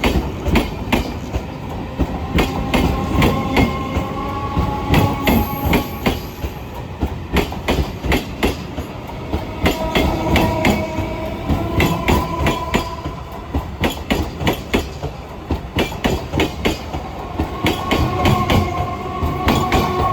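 Electric multiple unit (EMU) train running past at speed, its wheels clattering rapidly and continuously over rail joints. A faint high steady tone rises out of the clatter three times, for a few seconds each.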